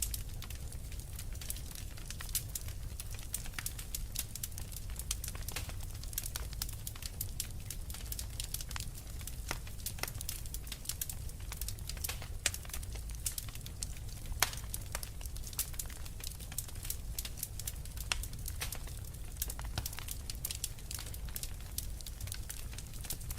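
Fireplace fire crackling steadily, with frequent irregular sharp pops and snaps over a low, even rumble of the flames.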